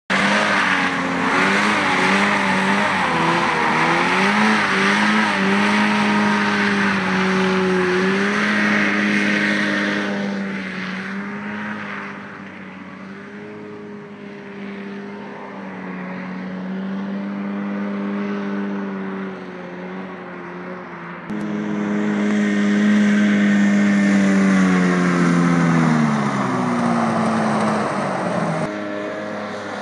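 Rotax 503 two-stroke twin engine and belt-driven fan of a SCAT 1 hovercraft running on water, its pitch wavering up and down with the throttle. The sound fades for several seconds in the middle and jumps back loud a little after twenty seconds, then the pitch slides down as it throttles back.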